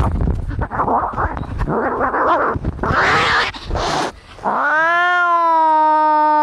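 Domestic cats fighting: harsh, noisy growling and hissing for the first few seconds, then one long, steady caterwauling yowl starting about halfway through.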